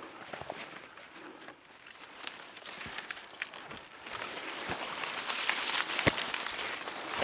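Footsteps and body brushing through wet bush undergrowth on a steep ridge, a rustling with scattered sharp snaps and clicks that grows louder about halfway through.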